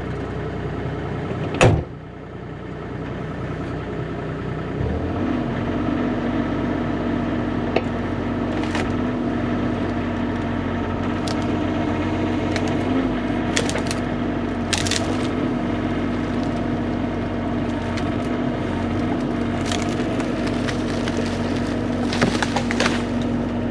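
Bobcat E35 mini excavator's diesel engine running, with one loud sharp crack about two seconds in; the engine then settles into a higher, steady pitch under load while spruce wood snaps and cracks now and then as the split trunk is handled.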